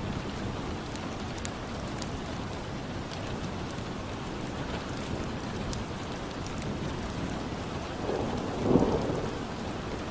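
Steady rain ambience with scattered small sharp ticks. A brief low rumble of thunder swells and fades near the end.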